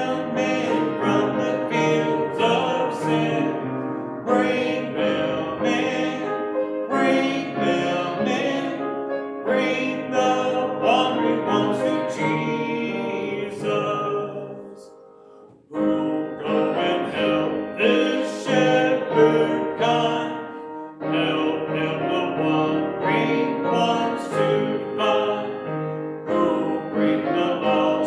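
A hymn sung with piano accompaniment. The music dies away about halfway through, then starts again after about a second.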